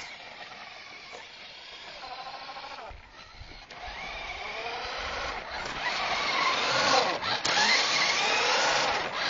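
Battery-powered toy car's electric motor whining, its pitch gliding up and down as it speeds up and slows, growing louder over the second half.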